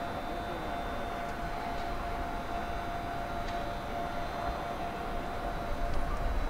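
Meitetsu electric train giving a steady whine on one held pitch over a low rumble.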